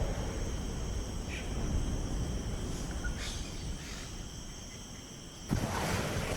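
Nature ambience of insects, crickets or the like, trilling steadily in several high, even tones over a low rumbling noise, with a few faint short chirps. About five and a half seconds in it cuts abruptly to a louder rushing noise.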